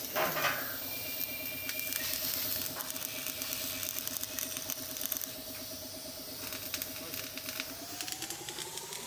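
A motor running at a steady pitch, with scattered clicks and knocks; its pitch rises smoothly near the end.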